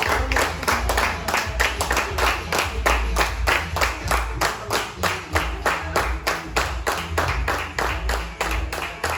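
A group clapping in a steady rhythm, about four claps a second, over a low rumble.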